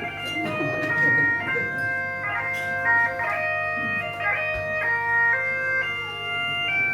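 Bagpipes playing a tune: a melody of held notes broken by quick grace notes over steady, unchanging drones.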